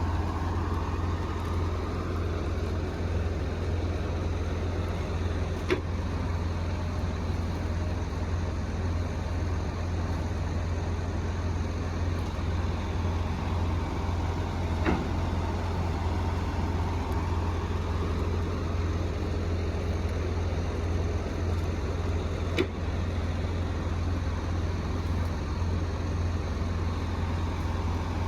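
Heavy diesel engine of tracked logging machinery running steadily at work, with a faint whine that rises and falls slowly. Three sharp knocks come spread through it.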